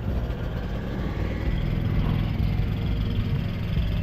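A semi truck's diesel engine idling steadily with a low, even rumble.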